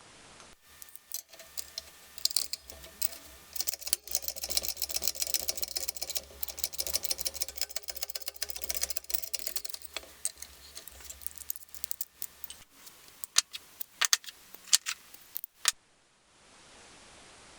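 Rapid, dense metallic clicking and clattering of tools and metal engine parts being handled, over a low steady hum. It thins out to a few sharp separate clicks and stops a couple of seconds before the end.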